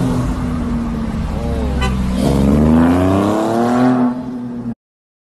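Car engine running, then accelerating with its pitch climbing steadily over about two seconds, before the sound cuts off abruptly.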